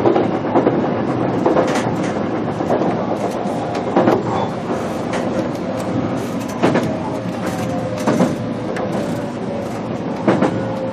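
Inside a stationary BEC819 battery electric railcar: a steady hum of onboard equipment with a faint held tone, broken by scattered sharp clicks and knocks.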